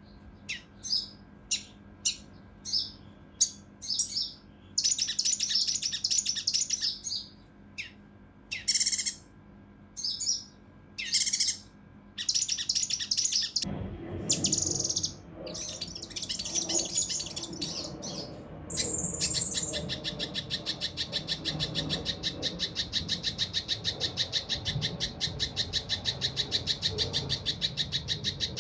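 Kinoi (cucak rante mas) bulbul calling in short, sharp, separate notes. About two-thirds of the way through it breaks into a fast, evenly spaced, dense rattling run of notes, the rough close-set 'tembakan' that masteran recordings are made to teach.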